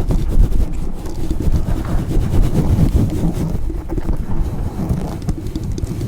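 Loud, fast rubbing and scratching directly on a microphone, a dense rough rumble of close friction noise with rapid fine strokes throughout, as from a brush worked against the mic.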